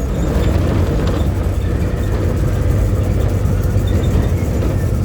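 VW 17-230 OD city bus's diesel engine running while the bus is under way: a steady low drone mixed with road and body noise, with no clear change in pitch.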